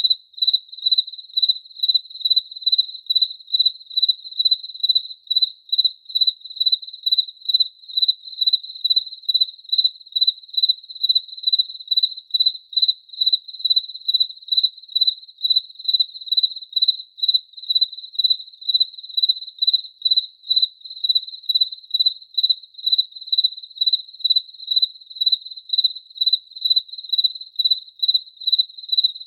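A cricket chirping steadily at a high pitch, about two evenly spaced chirps a second.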